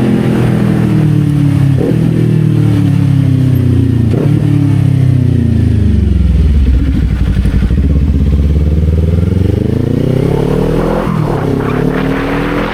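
Kawasaki Z400 parallel-twin engine, heard from the rider's seat. The revs fall as the bike slows, with gear changes about 2 and 4 seconds in. About 10 seconds in it accelerates, the revs climbing again through quick upshifts.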